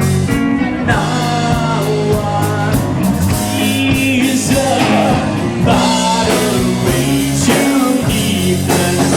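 Live rock band playing a song, with electric guitar, drums and singing.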